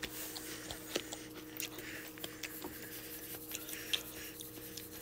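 Faint scattered crunches and small clicks of someone eating cornmeal-battered fried onion rings, over a steady low hum.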